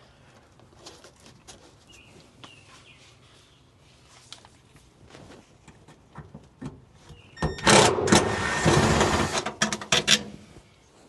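Scattered light clicks and knocks of parts being handled, then about three seconds of a loud small motor running in a dense burst that starts with a brief whine and stops suddenly.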